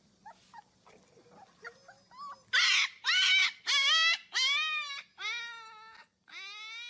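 A dog whining in a run of about six high, drawn-out calls, each bending up and then down. They start about two and a half seconds in, after a few faint squeaks, and the last call sweeps upward.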